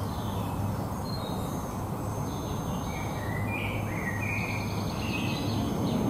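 Forest songbirds singing short chirping phrases over a steady low rumble, which grows a little louder near the end.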